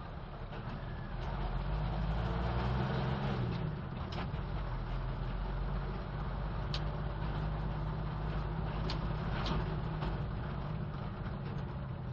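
Old BMC truck's engine running while driving: its note climbs over the first few seconds, drops away about three and a half seconds in, then holds steady, with a few sharp rattles and knocks over it.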